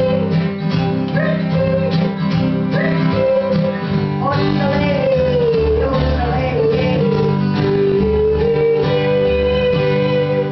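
Live acoustic country band playing the closing bars of a song: strummed guitar chords under a lead melody line that settles into a long held final note.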